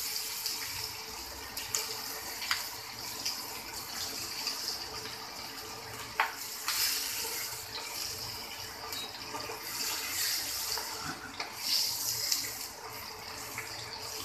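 Chopped onion sizzling in hot mustard oil in a nonstick frying pan, a steady hiss, with a few sharp clicks of a spoon against the pan as it is stirred.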